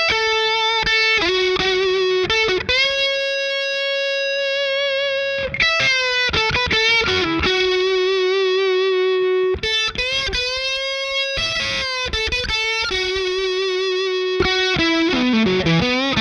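Overdriven electric guitar through a Ross Distortion followed by a Ross Compressor and a Fender '65 Deluxe Reverb reissue amp, playing a lead line of single notes held with long sustain. The notes are bent up and down with vibrato, and a quick run of descending notes comes near the end.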